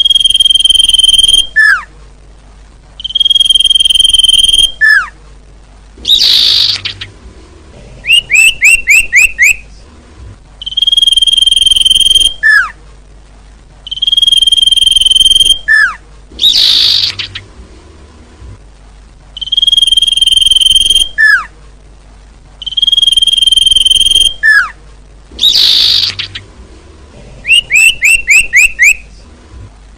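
Looped lure-call recording of a common iora singing. It repeats a long, clear, steady whistle that ends in a short falling note, runs of five or six quick rising chirps, and a harsh rasping call roughly every ten seconds, with short pauses between phrases.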